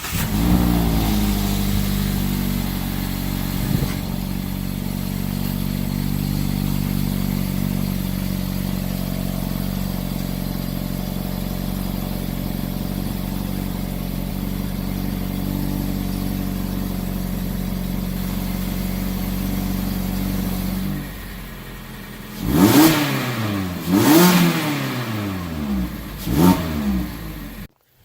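Mazda MX-5 Miata ND four-cylinder engine sounding through a Megan Racing aftermarket exhaust, idling steadily just after start-up. About three-quarters of the way through the idle drops quieter, then three quick throttle blips rev up and fall back.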